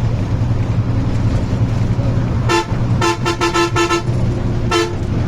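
Vehicle horn honking over the steady drone of a moving vehicle's engine and road noise. One blast comes about halfway through, then a quick string of short toots, then one more blast near the end.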